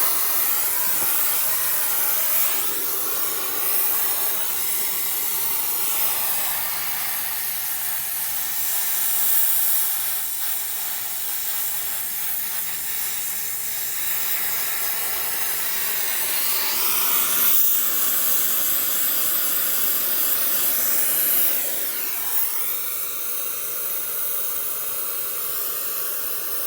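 A steady, loud hiss runs throughout, its tone shifting now and then.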